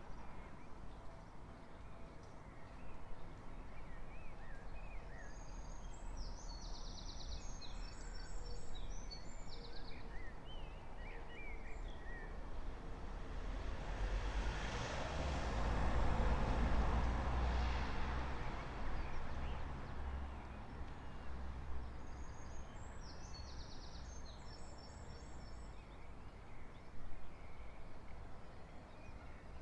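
Street ambience before dawn: a single vehicle passes, its noise swelling to a peak about halfway through and then fading. A songbird sings short, high chirping phrases before and after it.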